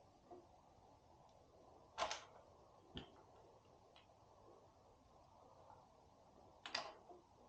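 Near silence broken by a few short, sharp clicks and taps of tools or parts being handled: two louder ones about two seconds in and near the end, and a couple of fainter ticks between.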